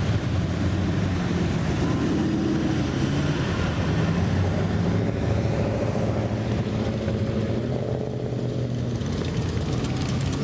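Classic car engines running as cars pull slowly past, a steady low engine note with slight shifts in pitch.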